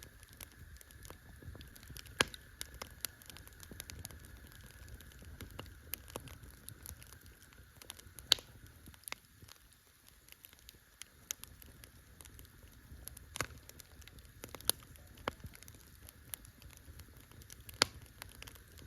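Campfire crackling: irregular sharp pops and snaps, the loudest about two, eight, thirteen and eighteen seconds in, over a low steady rumble.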